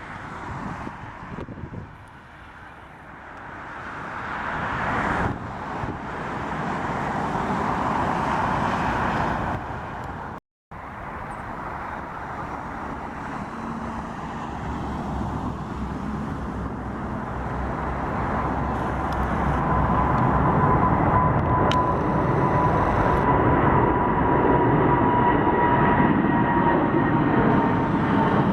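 Jet aircraft engine noise swelling to a peak, cut off by a brief total dropout about a third of the way in. Then another jet's engines build steadily, with a high whine that slides slightly down in pitch over the last third.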